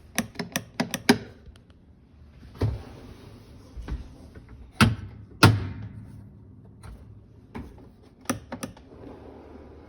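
Dishwasher door being shut and its latch tried: a quick run of clicks, then several heavy thunks of the door closing, the last one loudest, and a few more clicks near the end. The door is not staying latched shut.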